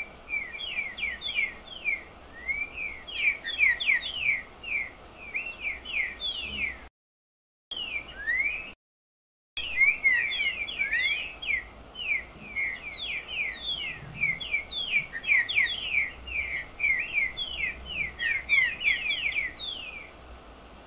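A picharro, a saltator, singing: a fast, continuous run of short falling whistled notes, several a second. The sound cuts out twice for under a second, about a third of the way in.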